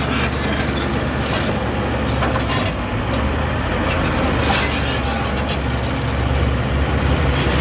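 Heavy diesel engine of construction machinery running steadily at a low hum, with scattered knocks and clatter, one plainer knock about halfway through.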